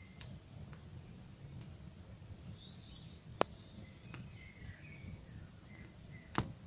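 Campfire crackling, with sharp pops about three and a half seconds in and near the end and a few fainter snaps, over a low steady rumble of the burning fire. Small birds chirp and twitter throughout.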